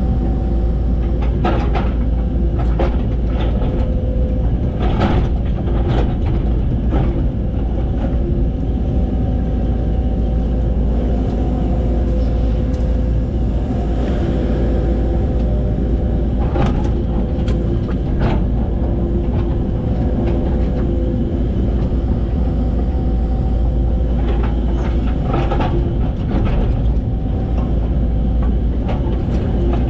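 Excavator running steadily under load with a droning engine and hydraulic whine, while its bucket digs, with scattered sharp clanks and knocks, in bunches early, in the middle and near the end.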